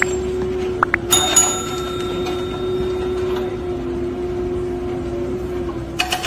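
A machine running with a steady hum at one pitch. There are a few sharp clicks and knocks near the start, and a second, lower tone joins partway through.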